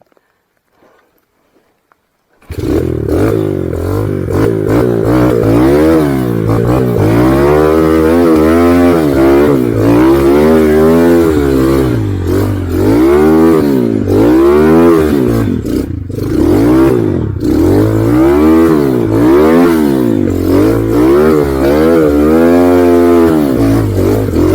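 Motorcycle engine starting up loudly about two seconds in, then revving up and down over and over, its pitch rising and falling every second or two.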